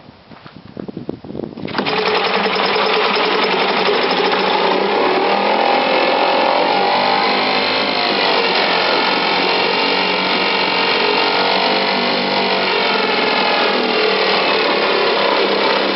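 British Seagull two-stroke outboard motor pull-started by a wrap-around rope, catching about two seconds in and then running fast and steady on full throttle with the choke closed: a cold start.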